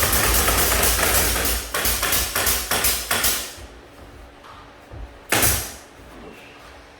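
Rapid, evenly repeated hammer strikes, about six or seven a second, that stop about three and a half seconds in, then one loud single knock a couple of seconds later.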